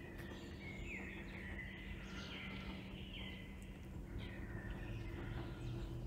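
Woodland birds singing short phrases with falling notes, repeated several times, over a steady low hum and a constant background rumble.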